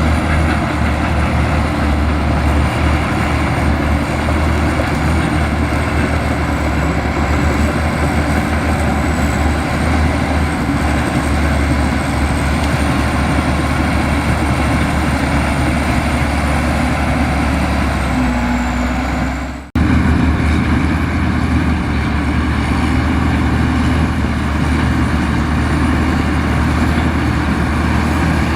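Komatsu bulldozer's diesel engine running steadily under load, with a brief change in pitch and a sudden momentary break about two-thirds of the way in before it carries on.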